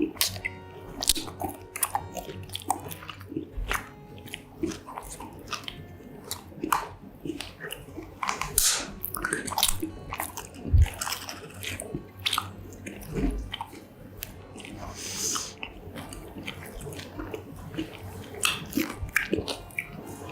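Close-miked biting and chewing of mozzarella corn dogs: irregular crunches from the fried batter crust and wet mouth clicks as the food is chewed. One heavier thump comes a little past halfway.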